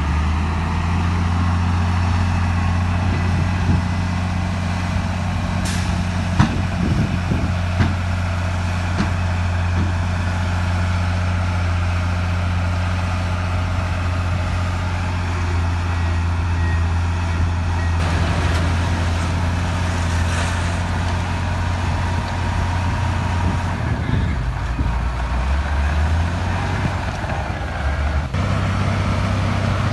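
Heavy diesel engine of earthmoving machinery running steadily under load. A few knocks come in the first quarter and short hisses later on. Near the end the revs drop for a few seconds, then pick up again.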